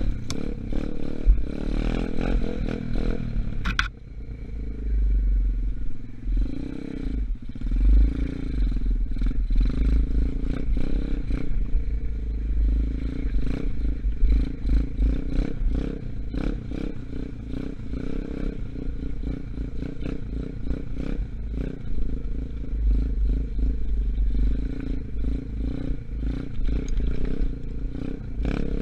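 Gunshot 125cc dirt bike engine, still in its break-in period, running as the bike is ridden, its pitch rising and falling with the throttle, with frequent clattering knocks from the bike.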